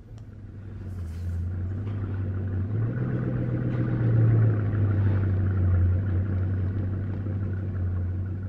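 Bugatti Chiron's quad-turbo W16 engine idling, a deep steady rumble that swells in loudness over the first few seconds, rises slightly in pitch about three seconds in, then eases back.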